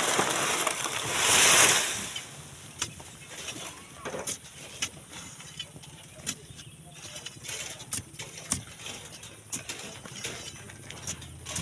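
A loud rushing noise swells and fades over the first two seconds. Then come scattered knocks and clicks of hand tools working sand and stone, over the low steady hum of an idling vehicle engine.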